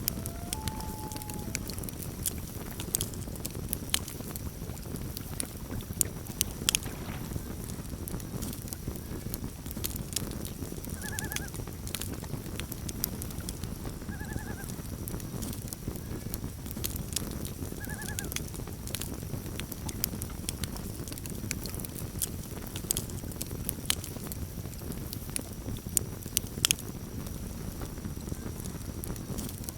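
Campfire crackling and popping over a steady low rumble, with a few loud sharp pops. Three short wavering loon calls sound faintly in the middle.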